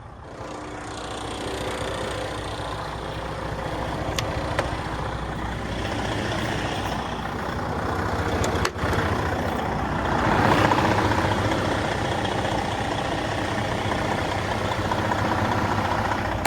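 Heavy truck diesel engine idling steadily, with a low even hum. It grows louder over the first two seconds and again about ten seconds in.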